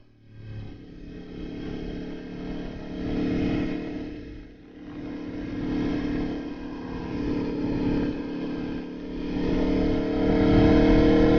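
Aprilia Tuono motorcycle engine running under way. The engine note rises and falls with the throttle, dips briefly about four and a half seconds in, and climbs in pitch near the end as the bike accelerates.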